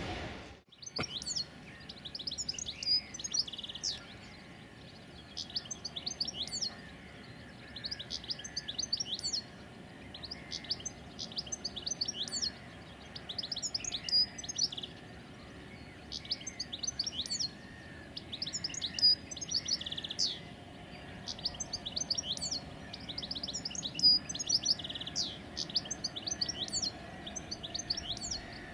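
A songbird singing short phrases of quick, high chirps, repeated about every one and a half to two seconds.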